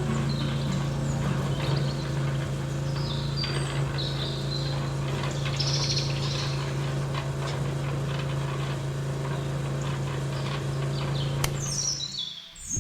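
Small birds chirping over a steady low hum; the hum cuts out about twelve seconds in.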